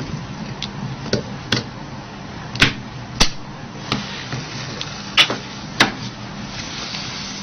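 A run of about seven sharp clicks and taps as small tools and parts of a Nokia 8800 phone touch and knock together during disassembly, the loudest four falling in the middle, over a steady low hum.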